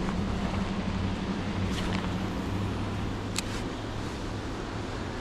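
Steady rush of river water with a low hum beneath it that fades near the end, and two short clicks about two and three and a half seconds in.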